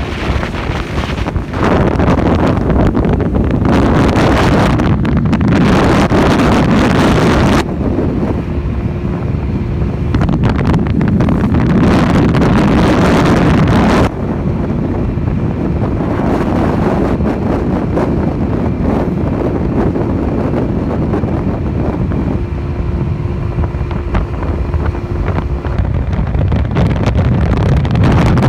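Wind rushing over the microphone of a riding motorcycle, with its small engine running steadily underneath. The wind noise eases abruptly about seven seconds in and picks back up about halfway through.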